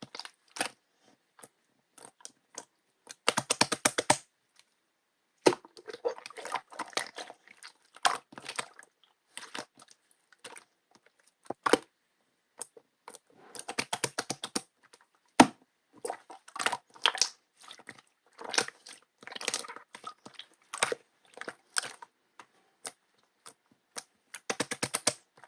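Jelly-textured slime being squished and worked by hand: sticky, wet clicks and crackles, with quick runs of rapid popping every several seconds.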